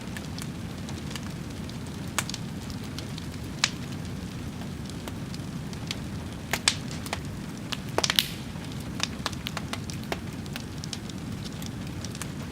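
Wood fire burning: a steady low rumble with scattered sharp crackles and pops, including a quick cluster of louder pops about eight seconds in.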